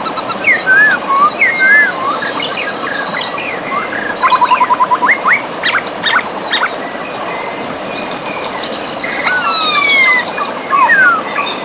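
Several birds singing and calling at once, with sweeping whistles and a rapid trill about four seconds in, over the steady rush of a river.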